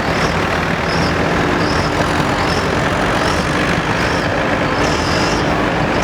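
Loud, steady roar of a pulling truck's engine at a truck pull, with a faint high chirp repeating about every three-quarters of a second.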